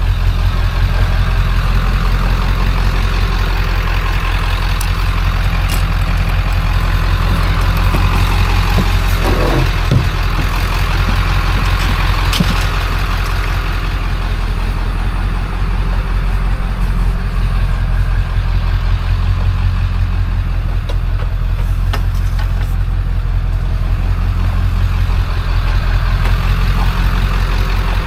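A motor vehicle running with a steady low rumble, and a few light knocks or rattles about ten and twelve seconds in.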